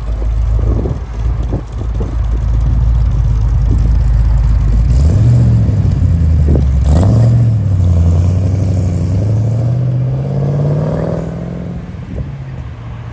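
A V8 car engine rumbling at low revs, then revving up twice and accelerating away with a steadily rising note that fades near the end.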